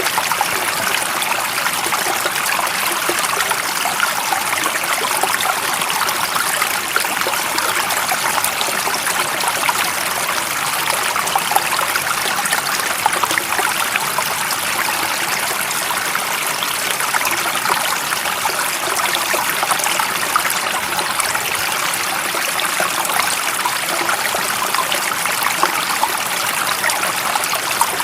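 A stream of water running and trickling steadily, a continuous even splashing with no change in level.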